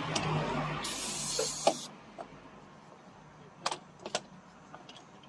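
Truck-repair workshop work noise: a tool or motor whirs with a steady hum for about two seconds, with a short burst of hiss, and ends in a sharp metal clank. A few light metallic clinks follow.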